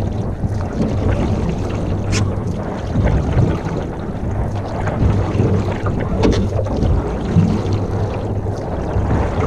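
Wind rumbling on the microphone, with water around a canoe and a couple of light knocks, about two seconds and six seconds in.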